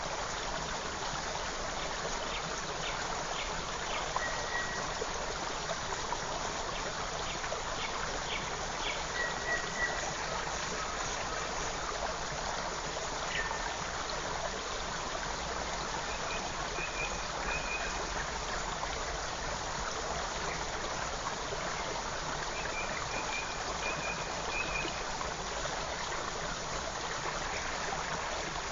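Creek water flowing steadily, with short, high bird chirps now and then and a couple of brief runs of quick repeated notes over it.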